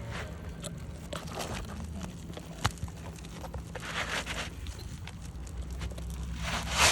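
A single sharp hammer strike on a roofing nail about two and a half seconds in, with soft scuffing and scraping on the asphalt shingles around it.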